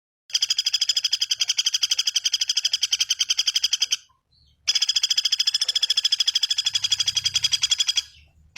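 Bird call recording for training cage birds: long, rapid trills of evenly spaced, identical high notes, about eight a second at a steady pitch. Two runs of nearly four seconds each, with a short pause between them, and a third starting at the end.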